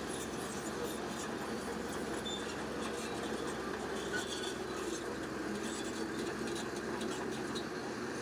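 Bulldozer at work: a steady, unbroken machine noise with no distinct knocks or revs.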